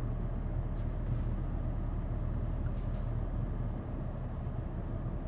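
A vehicle engine idling: a steady low rumble that runs without change.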